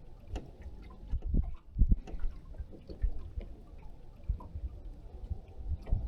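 Scattered light knocks, clicks and low thumps at an irregular pace, with no steady motor: gear being handled aboard a small fishing boat.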